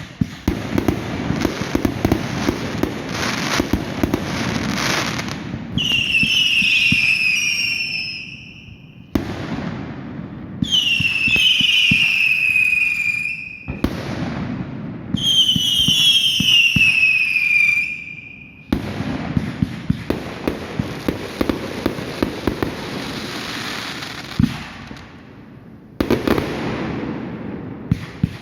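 Fireworks going off with dense crackling and popping. Three shrill whistles sound about 6, 11 and 15 seconds in, each falling in pitch over two to three seconds.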